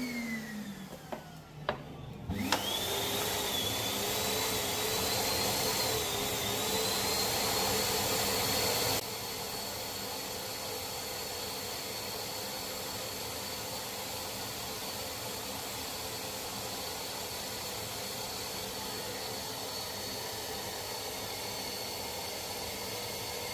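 Household vacuum cleaner used to suck air out of a scooter's brake line through the caliper's bleed nipple. Its motor winds down, a few clicks follow, then it is switched back on about two and a half seconds in and spins up to a steady whine, which drops somewhat in level about nine seconds in and runs on steadily.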